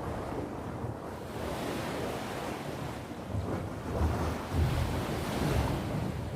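Sea waves breaking and washing on the shore, the surf swelling and easing, with wind buffeting the microphone in low rumbles.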